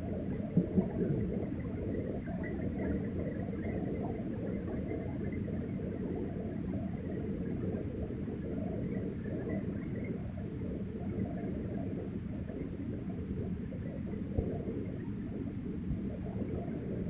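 Heavy rainstorm and floodwater: a steady, muffled low rumble of water, with two brief knocks under a second in.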